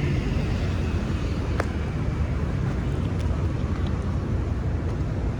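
Steady low rumble of city traffic with wind buffeting the microphone. Two sharp ticks come through, one just over a second and a half in and one about three seconds in.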